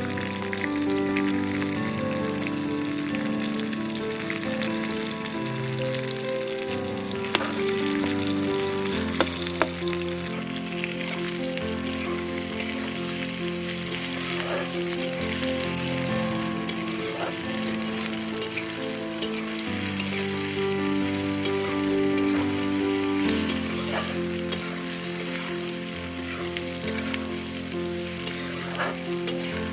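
Potatoes, eggplant, onions and small hilsa sizzling in oil in a cast-iron kadai, with a metal spatula scraping and knocking against the pan as it is stirred. The sizzle grows louder about ten seconds in. Background music plays underneath.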